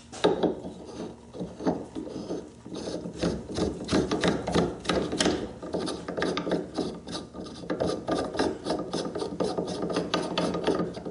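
Internally threaded dial being screwed by hand onto the lathe's 1-1/2-8 spindle-nose thread: a tight fit, so metal threads grind and scrape with a run of dense clicking rasps.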